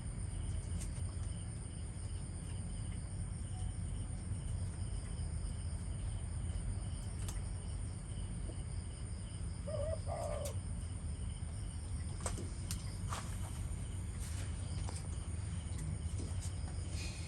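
Crickets chirping steadily in a high, even drone over a low rumble, with one short low call about ten seconds in and a few faint clicks.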